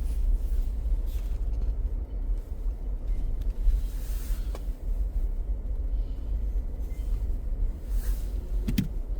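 Steady low road and engine rumble of a car heard from inside the cabin while driving. A brief sharp click with a short pitched squeak near the end.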